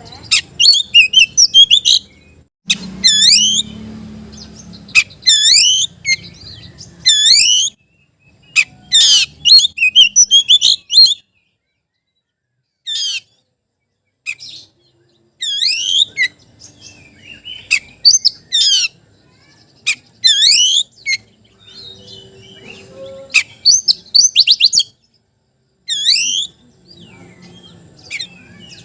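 Oriental magpie-robin (kacer) singing a loud challenge song at a rival: short phrases of quick, swooping whistled notes, repeated again and again with brief pauses between them.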